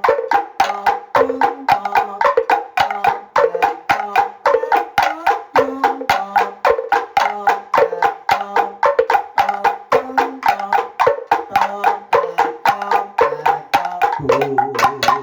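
A kentongan ensemble of Javanese slit drums plays a fast, interlocking rhythm of pitched wooden knocks, about five strikes a second, repeating a short melodic pattern. Lower notes come in near the end.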